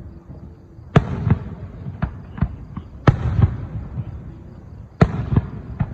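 Aerial fireworks shells bursting: three loud bangs about two seconds apart, each with a rumbling tail, and smaller pops and cracks between them.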